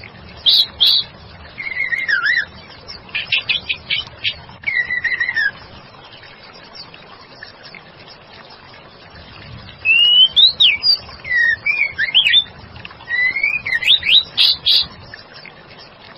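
Female white-rumped shama (murai batu) singing in bursts of short whistled phrases with sliding notes and quick note runs, with a pause of about four seconds in the middle. This is the lively female call used as a lure to draw caged male shamas into song.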